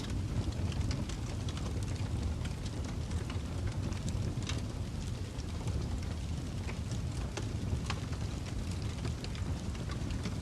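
Fireplace crackling: a steady low rumble of burning wood with scattered sharp pops and snaps.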